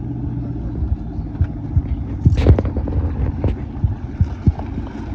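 Engine exhaust running near idle with a deep, uneven pulsing rumble, and a sharp burst about two and a half seconds in.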